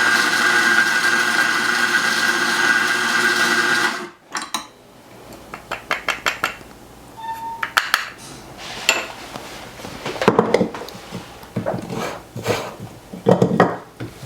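Electric coffee grinder running steadily for about four seconds and stopping abruptly. Then scattered knocks, clicks and clinks of espresso gear being handled.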